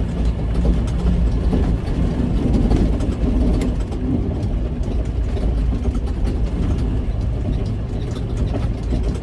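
Semi-truck's diesel engine running steadily at low speed, a constant low rumble heard from inside the cab.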